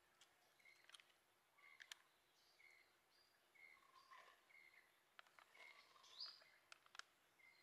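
Faint outdoor ambience: a bird repeats a short, high chirp every second or so, with a few faint clicks.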